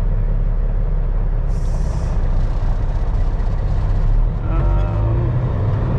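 Semi truck's diesel engine idling with a steady low rumble, heard from inside the cab, with a short hiss of compressed air about a second and a half in.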